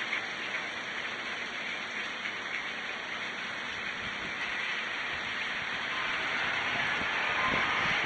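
Steady rain falling. Toward the end, the hiss of a car's tyres on the wet road grows louder as it approaches.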